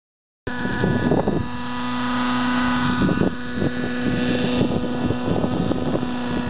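Radio-controlled model aircraft motor running at a steady pitch, with wind buffeting the microphone. It cuts in suddenly about half a second in.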